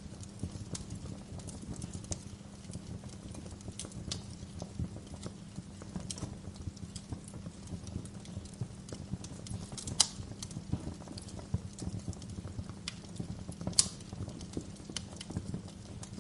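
Wood fire crackling in a fireplace: irregular snaps and pops over a steady low rumble, with two louder pops about ten seconds in and a few seconds later.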